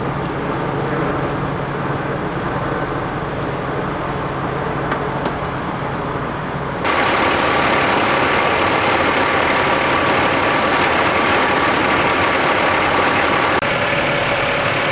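Fire engines' diesel engines running steadily at the scene. About seven seconds in, the sound jumps abruptly to a louder, brighter engine noise.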